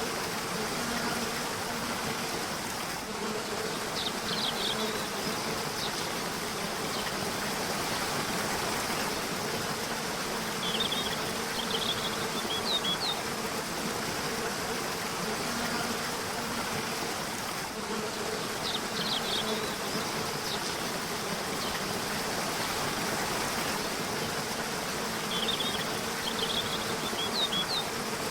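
Steady rush of a river's flowing water, with short bursts of high bird chirps several times, about every seven seconds. A low buzzing comes and goes under the water sound.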